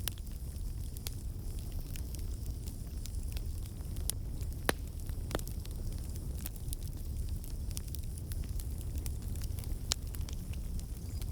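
Campfire burning with a low steady rumble and scattered sharp crackles and pops, the loudest pop a little under five seconds in.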